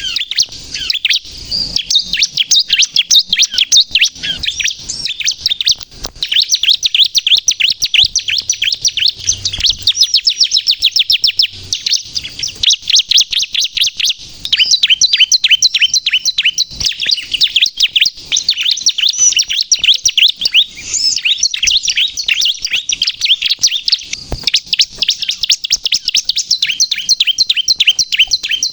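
Ciblek kristal (bar-winged prinia) singing a rapid, unbroken string of high, sharp chirps, with brief breaks about six and fourteen seconds in. It is the persistent 'gacor' song that keepers play to lure wild ciblek and to excite caged ones into singing.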